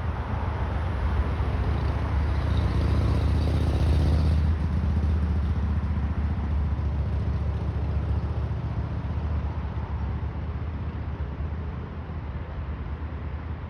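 Transport for Wales class 197 diesel multiple unit running, a deep engine hum with the rumble of the train, loudest about four seconds in and then fading steadily.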